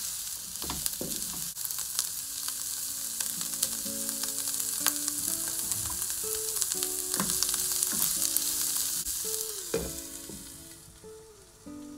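Vegetables sizzling in a hot nonstick pan as they are stir-fried, with a wooden spatula scraping and knocking against the pan. Near the end the sizzle fades as a glass lid is set over the pan.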